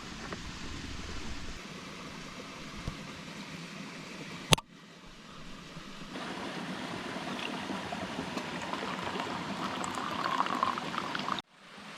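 Steady rush of running water from a small moorland stream and waterfall. There is a sharp click about four and a half seconds in, and the sound cuts out abruptly just before the end.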